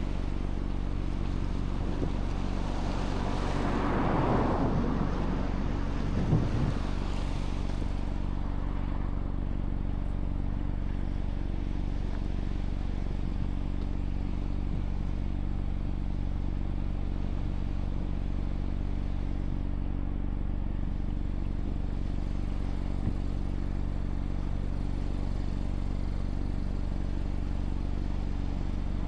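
Mazda MX-5's 1.5-litre four-cylinder engine idling steadily while the car is pulled over. Another vehicle passes by, swelling and fading a few seconds in.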